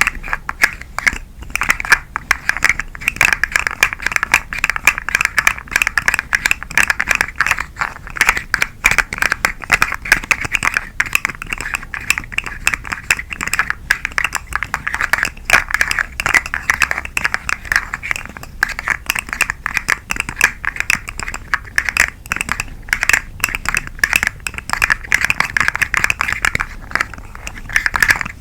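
Twisting caterpillar-shaped 'macaron bug' toy handled close to the microphone, giving a dense, rapid crackling of fine clicks that runs on with brief pauses.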